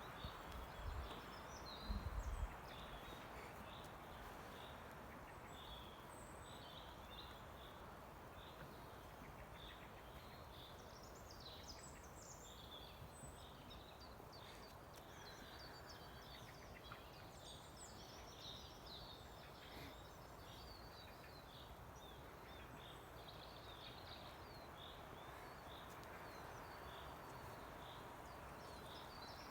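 Birds chirping and singing faintly over a steady outdoor hiss, with a few low thumps on the microphone in the first seconds.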